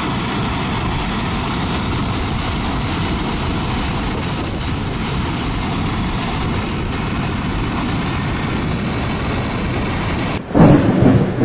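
Flash-flood torrent of muddy water carrying rocks, a steady rushing noise. Near the end it cuts abruptly to a louder, deeper sound from a different clip.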